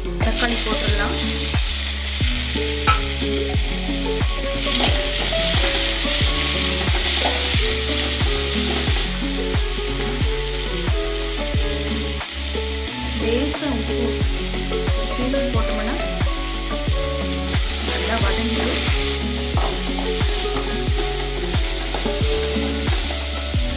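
Chopped onion, curry leaves and tomato frying in hot oil in a kadai, sizzling steadily as they are stirred with a spoon.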